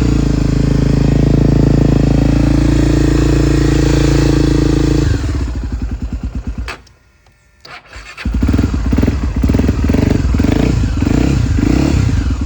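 Honda Tornado motorcycle's single-cylinder four-stroke engine running steadily at a raised speed, then cutting out about five seconds in and winding down. About three seconds later it is started again and runs on with an uneven, pulsing idle.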